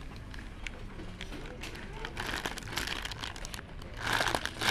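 Plastic packaging crinkling in irregular bursts as it is handled, louder near the end.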